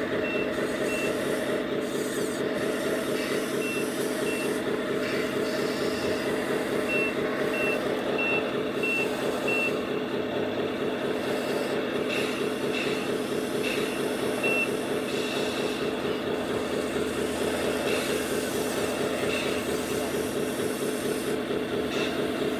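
Sound module of a 1/14-scale RC truck playing a diesel engine running steadily, with a reversing alarm beeping in several spells of quick beeps: the truck is backing up.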